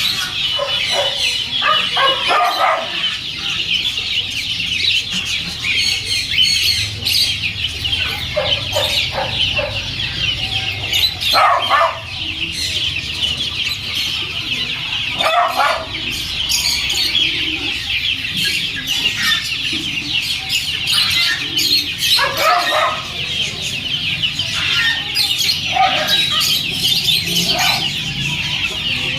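Many caged birds chattering and chirping together in a continuous high twitter, with short louder, lower-pitched calls breaking through every few seconds.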